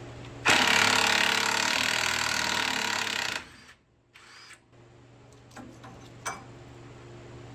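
A power tool runs in one loud burst of about three seconds, starting about half a second in and cutting off sharply.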